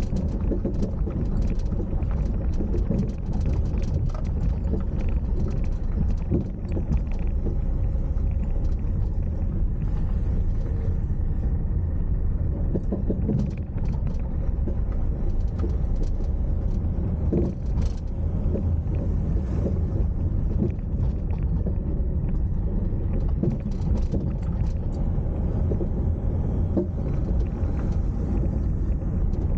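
Car driving, recorded from the car itself: a steady low rumble of engine and tyre noise, with scattered small knocks and rattles.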